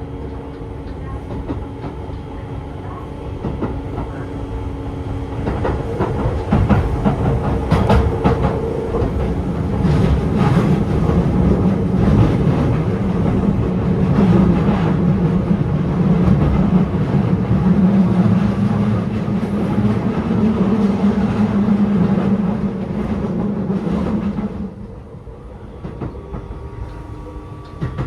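Keio 7000 series electric train heard from inside the car while running: wheels rumbling on the rails with intermittent rail-joint clicks, over the steady hum of its Hitachi IGBT-VVVF traction motors. The noise grows louder during the first few seconds and stays loud through the middle. It drops sharply near the end, where a steady high whine sets in.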